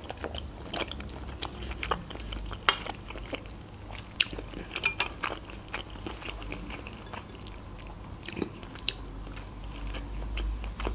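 Close-miked chewing of a spoonful of dushbara, small dumplings in broth: irregular mouth clicks and smacks, busiest a few seconds in.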